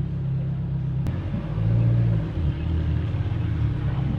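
Ferrari V8 engine rumbling at low speed in slow traffic, its note shifting up and back down briefly about two seconds in. A single sharp click comes about a second in.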